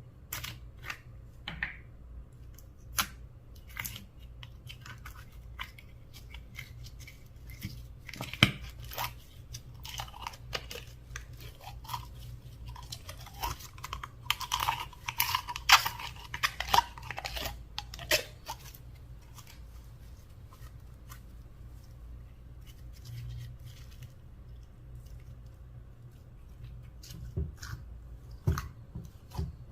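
Slime being squished and mixed, giving irregular sticky crackles, clicks and pops. It is busiest in the middle stretch, then thins out, with a few sharper clicks near the end.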